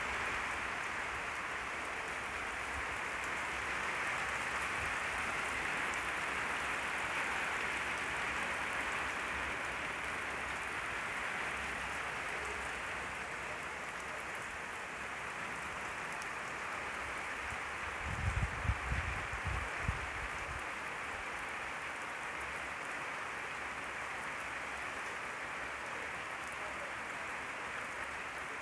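Heavy rain falling steadily onto wet ground and standing water, an even hiss of countless drops. About two-thirds of the way through there are a few brief low thumps.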